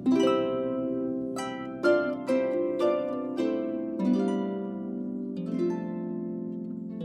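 Solo harp playing: plucked notes that ring on and overlap, a new note or chord about every half second over sustained lower strings.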